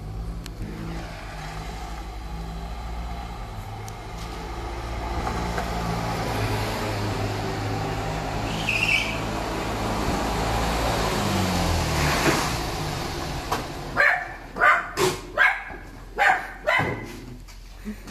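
Fiat 126p's small air-cooled two-cylinder engine running steadily, its pitch rising briefly before it stops about two-thirds of the way through. A dog then barks about six times in quick succession near the end.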